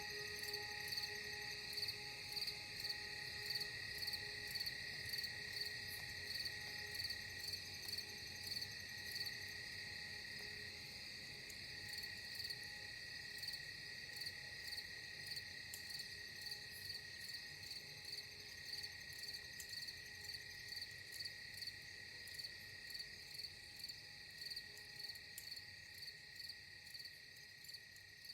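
A chorus of insects chirping in a steady, even pulse of about one and a half chirps a second.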